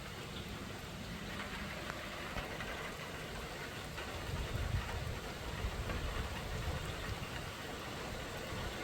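Steady rain falling, with a low rumble swelling up about four seconds in and easing off again about two seconds later.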